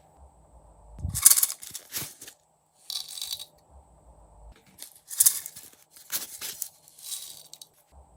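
Hands squishing and pressing clear slime, giving about five bursts of wet crackling and popping. The loudest burst comes about a second in.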